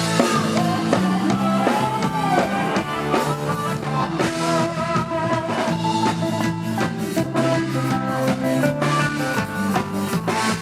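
Live band music with electric guitar and drum kit playing a steady beat, from an Isan rot hae stage band.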